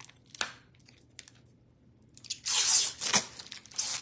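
Trading-card packaging being torn open by hand: a single tap about half a second in, then a loud, papery tear about two and a half seconds in and another short tear near the end.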